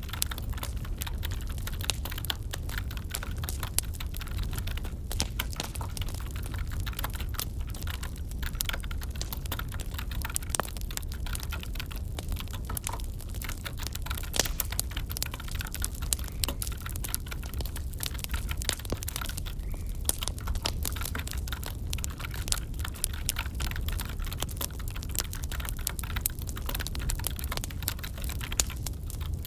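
Crackling wood fire: a steady low rumble with many small, irregular pops and snaps of burning logs.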